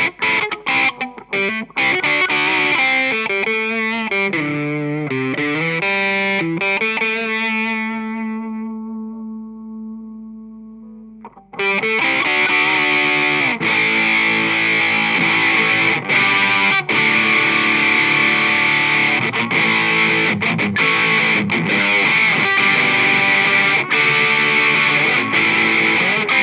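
Electric guitar played through a Livingston heavy metal distortion pedal boosted by an Ibanez Tube Screamer: heavily distorted, choppy muted riffing, then chords let ring and fade away, then a dense, sustained distorted riff starts suddenly a little before halfway through.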